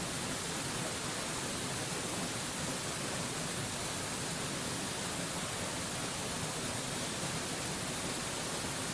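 Waterfall: water falling and splashing in a steady, even rush with a strong hiss and no changes.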